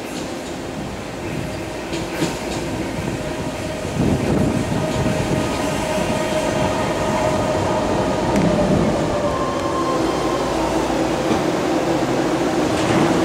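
Eight-car BART train running into the platform and slowing to a stop. The sound gets louder about four seconds in as the cars pass, and a steady whine sits over the rumble of the wheels on the rails.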